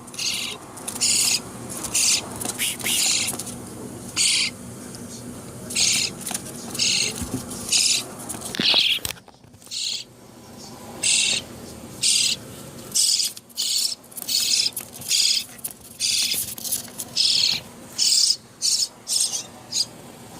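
Baby bird begging for food: a long series of short, raspy, high-pitched calls, roughly one a second at an uneven pace.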